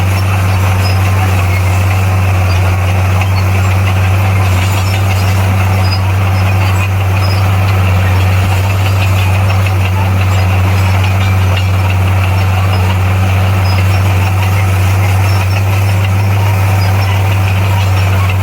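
Bulldozer's diesel engine running steadily at a constant low pitch, with a rough mechanical noise over it and no change in speed.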